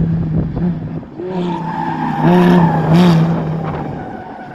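Lamborghini Gallardo V10 engine under hard braking into a turn. Its note swells briefly in pitch twice, about two and three seconds in, while the tyres squeal, and it grows quieter toward the end.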